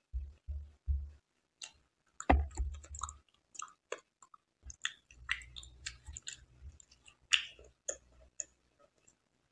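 Close-up wet chewing of soft, syrup-soaked Indian sweets: many sticky mouth clicks and smacks, with a few dull thumps in the first second and louder smacks about two seconds in and again near the end.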